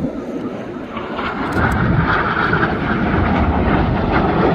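Jet noise of Red Arrows BAE Hawk T1 aircraft, with their Rolls-Royce Adour turbofan engines, flying past as a dense rumble that grows louder about a second in and stays loud.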